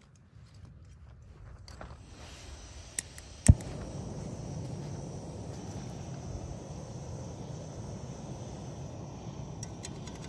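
Backpacking gas stove lit: a click, then a sharp pop about three and a half seconds in, after which the burner runs with a steady hiss.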